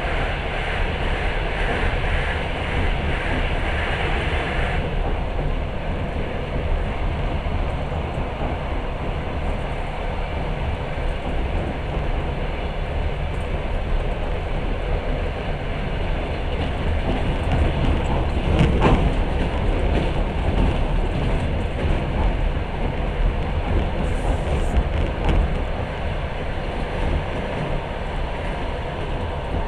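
Passenger train running at speed, heard from inside the carriage: a steady rumble and rush of wheels on rails. A brighter hiss over the first five seconds stops abruptly, and a louder clatter comes about nineteen seconds in.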